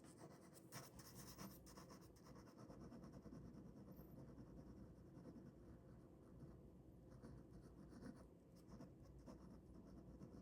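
Faint ballpoint pen scratching on paper in short drawing strokes, in clusters near the start and again toward the end.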